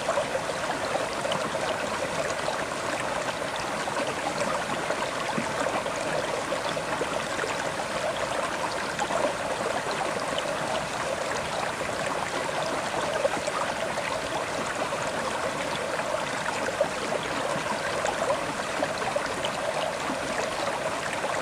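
River water flowing over stones: a steady rushing and babbling, dense with small splashes and gurgles.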